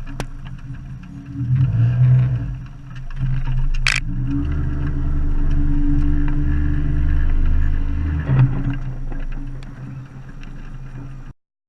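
Boat motor running, with its pitch and level rising about four seconds in as it speeds up, then easing off near the end. It cuts off abruptly just before the end.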